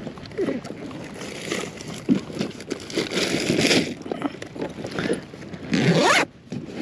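Water sloshing and splashing around a fishing kayak, in uneven surges with a few knocks, the loudest a little past halfway and again near the end.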